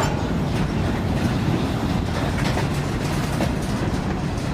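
Freight cars rolling past on the rails: a steady rumble of steel wheels, with a few faint clicks as wheels cross rail joints.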